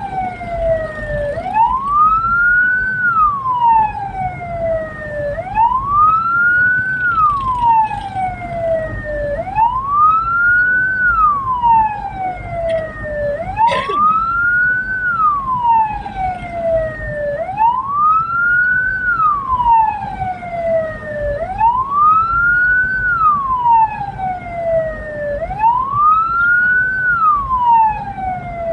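Hearse siren wailing, its pitch sweeping up quickly and sliding slowly back down about every four seconds, with a short sharp whoop about halfway through, over the low rumble of the vehicle on the road.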